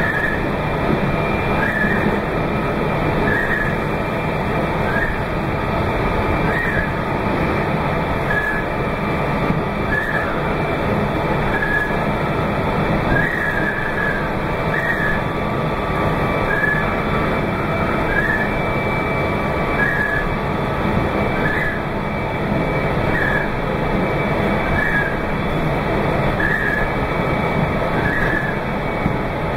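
Meitetsu 2200 series limited express train running steadily, heard from the front of the train, with a short squeak about once a second from the windscreen wipers sweeping in heavy rain.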